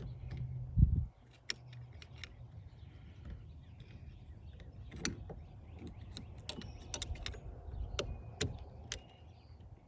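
Irregular small clicks and taps of hand tools and metal parts being worked into a car's steering column, with a louder knock about a second in. A low steady hum stops about two seconds in.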